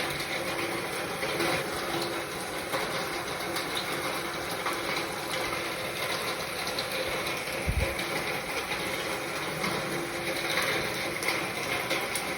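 Rain falling steadily, a dense patter of small drop ticks over a constant hiss, with one short low thump a little past the middle.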